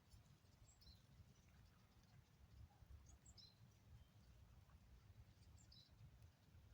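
Near silence with a few faint, short bird chirps: about a second in, a couple around the middle, and one near the end. Under them runs a low, steady rumble.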